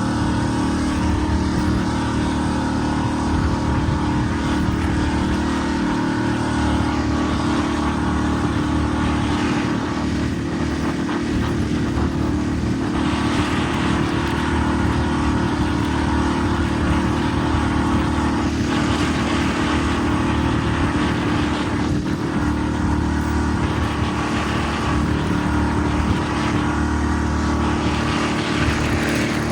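Motorboat engine running steadily under way, with an even rush of wind and water.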